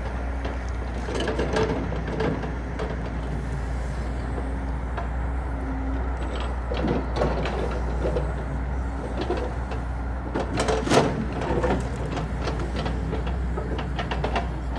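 An engine running steadily with a low hum, with scattered knocks and rattles over it, the loudest a little past the middle.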